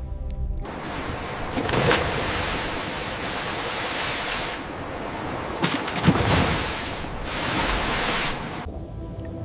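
A loud rushing noise that starts abruptly, eases briefly about halfway through, swells again and cuts off suddenly near the end.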